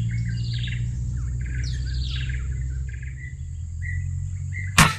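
Small birds chirping and trilling steadily, then near the end a single sharp shot from a PCP air rifle.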